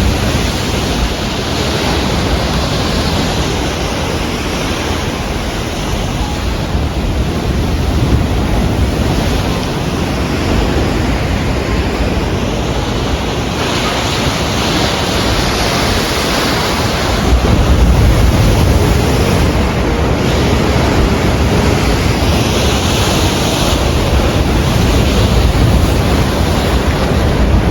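Wind buffeting the microphone, with lake waves washing against the shore in slow swells that rise and fall every several seconds.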